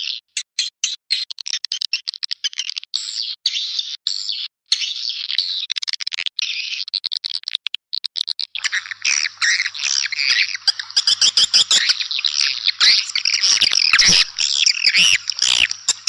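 Swiftlets calling: rapid high-pitched chirps and twitters in quick broken runs, becoming denser and louder about halfway through. It is a swiftlet call track of the kind played to draw swiftlets to nest houses.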